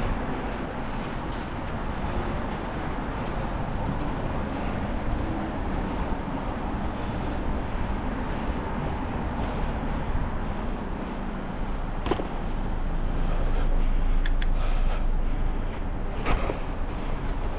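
Steady low rumble of a car on the road, road and engine noise without a clear engine note, swelling a little after about thirteen seconds, with a few sharp clicks in the last few seconds.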